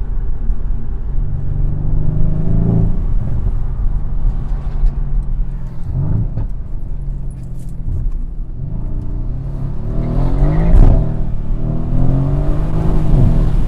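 A Mercedes-AMG C63 S's twin-turbo V8, heard from inside the cabin, pulling hard under acceleration. The engine note climbs and drops back several times as it shifts up, and is loudest about eleven seconds in.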